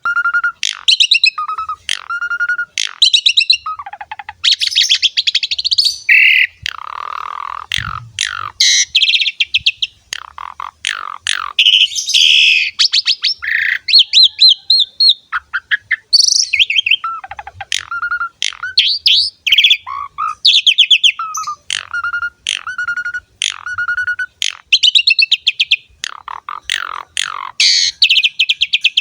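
Asian pied starling (jalak suren) singing a long, varied song of whistled notes, harsh buzzy rasps and repeated chattering phrases, with short pauses between phrases.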